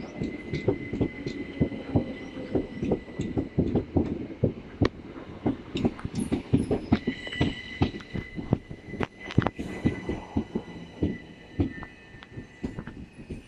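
Southern Class 377 Electrostar electric multiple unit pulling into the platform: wheels clattering over rail joints in rapid knocks that thin out as it slows. A high squeal comes in and grows from about seven seconds in as it brakes.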